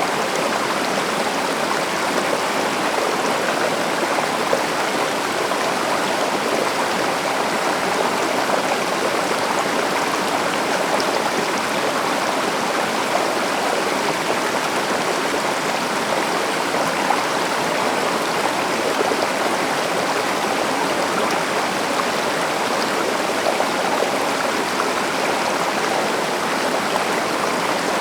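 A stream or small river running steadily over rocks, an unbroken rush of flowing water.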